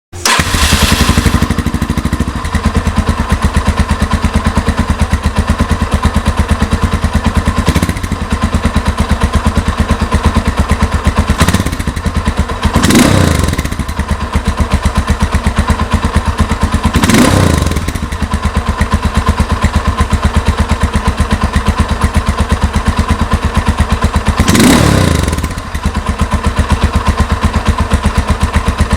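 Yamaha Scorpio Z's 223 cc single-cylinder four-stroke engine idling through its stock exhaust with an even, pulsing thump. It is revved briefly five times, three of them clear blips and two lighter, each rising and falling back to idle.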